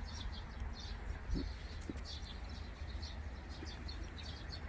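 Small birds chirping repeatedly, with short high calls coming in quick succession, over a low background rumble.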